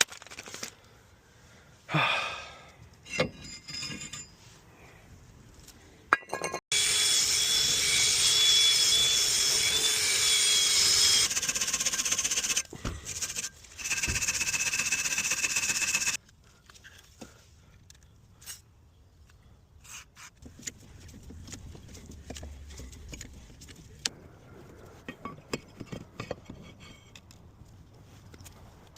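Power tool running in two long runs of several seconds each, a steady whine with a rasping noise over it, used on a car's rear brake parts. Before and after it, scattered light clinks and knocks of hand work.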